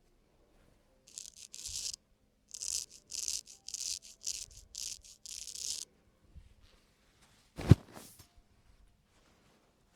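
Razor scraping over the skin of a man's face in a string of short strokes, about nine of them, high and hissy. Then one sharp click, the loudest sound, comes a couple of seconds later.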